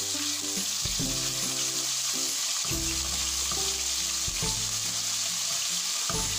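Ginger-garlic paste frying in hot oil in a non-stick kadai, a steady sizzle, stirred with a wooden spatula to cook off the paste's raw taste. Background music with slow chord changes plays underneath.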